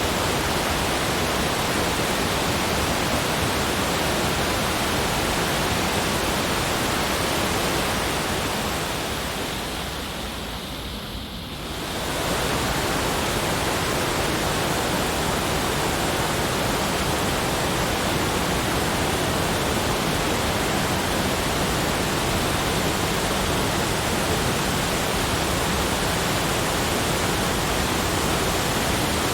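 Steady, even rushing noise spread across all pitches. About eight seconds in it fades down a little, then jumps back to full level at about twelve seconds.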